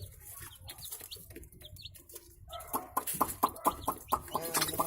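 Birds calling: short high chirps, then from about halfway a quick run of clucking notes, several a second.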